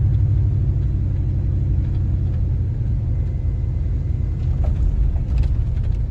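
Steady low rumble of a vehicle's engine and tyres heard from inside the cab while driving slowly along a park road.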